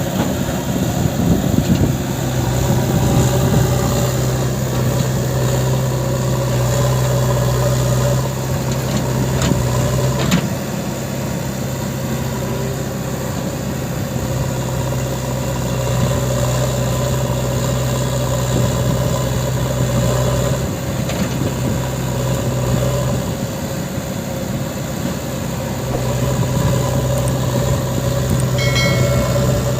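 Diesel engine of working earth-moving machinery running steadily. Its note eases a little about a third of the way in and picks up again near the end.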